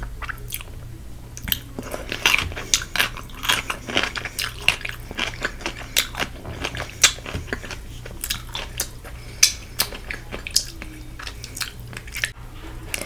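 Close-miked chewing of crispy Korean fried chicken: a rapid, irregular run of crunchy crackles as the coating is bitten and chewed.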